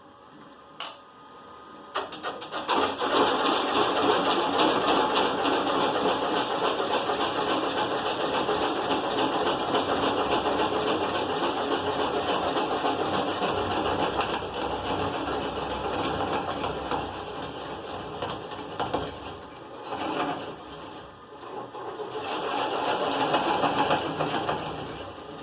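A power tool running with a rapid mechanical chatter. It starts a couple of seconds in, drops away briefly about three-quarters of the way through, then picks up again.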